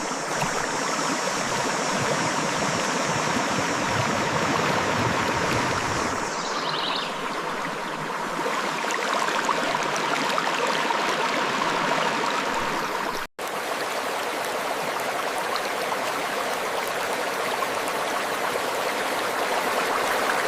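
Clear river water flowing and splashing over rocks in a steady rush, with a momentary dropout about two-thirds of the way through.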